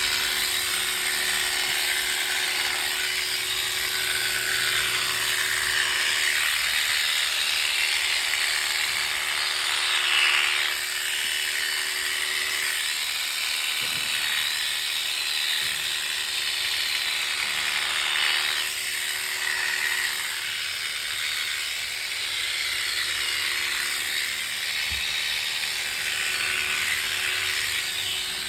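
Electric shearing clippers running steadily while cutting a sheep's fleece, a continuous high buzz with a faint steady hum underneath.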